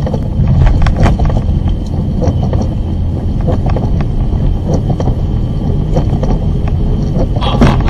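Moving road vehicle: a loud, steady low rumble of engine and road noise, with frequent small knocks and rattles. A louder, sharper burst of noise comes near the end.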